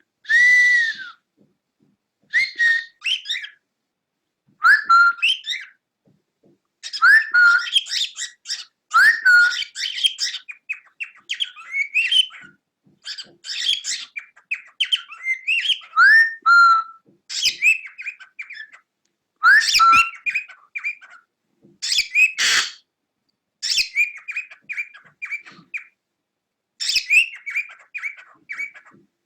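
Cockatiel chirping and whistling in short phrases of quick rising and falling notes, separated by brief pauses.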